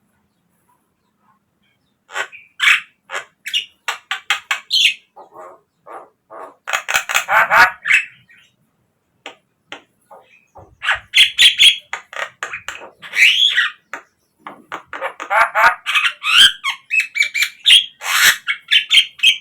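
Javan myna song: harsh squawks, rapid clicking runs and whistled chatter in bursts, starting about two seconds in and broken by short pauses.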